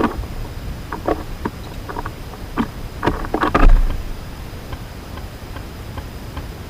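Scattered light taps and clicks at a backyard bird feeder, with a short cluster of louder knocks and one dull thump about three and a half seconds in, over a steady low outdoor rumble.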